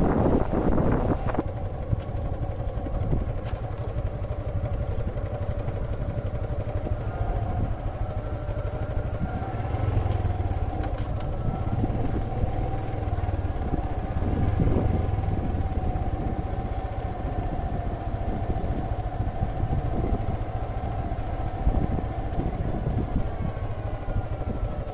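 A small engine running steadily, with a constant low rumble and a steady hum that holds its pitch.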